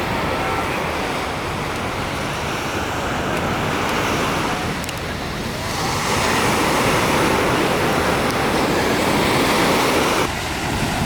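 Sea waves washing onto the beach, the surge building louder about halfway through and easing off near the end.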